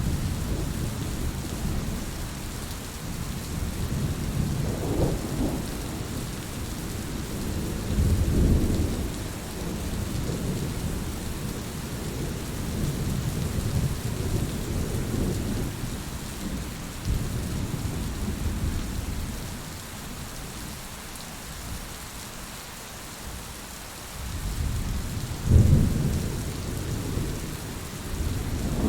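Heavy rain falling steadily, with low rolls of thunder that swell and fade several times, loudest about eight seconds in and again near the end.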